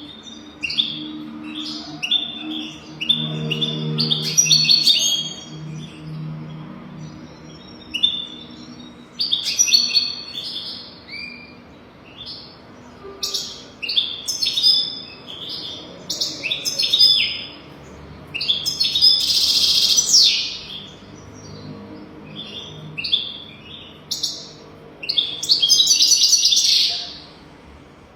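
European goldfinch singing in repeated bursts of fast twittering phrases with short gaps between. The loudest, buzzier phrases come about two-thirds of the way in and near the end.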